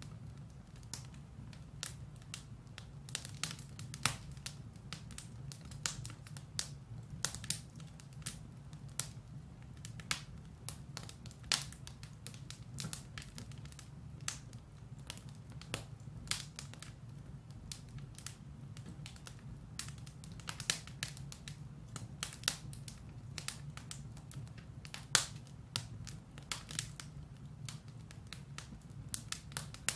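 Firewood burning in a fireplace: frequent, irregular sharp crackles and pops over a low, steady rumble of the flames.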